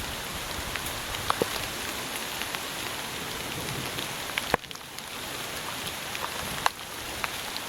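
Steady rain falling, with scattered sharp drop ticks; two louder clicks come about halfway through and near the end.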